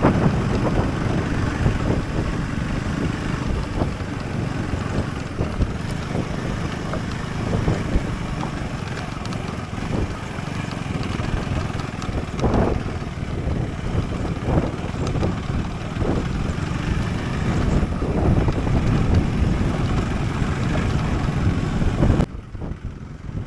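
Husqvarna Svartpilen 401's single-cylinder engine running under way, mixed with heavy wind noise on the microphone. About a second before the end the sound cuts off abruptly to something quieter and duller.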